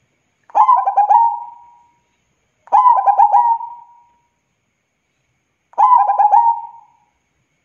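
Zebra dove (perkutut) cooing three times, each phrase a quick run of short clipped notes that trails off at the end.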